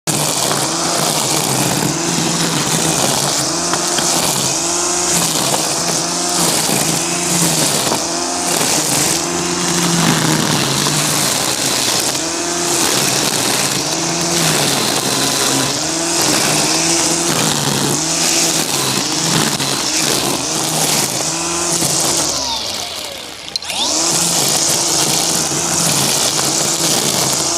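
String trimmer cutting tall grass, its motor revving up and down over and over as the throttle is worked. It eases off briefly about 23 seconds in, then revs back up.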